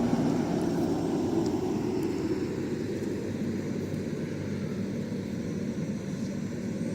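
A motor engine running with a steady drone.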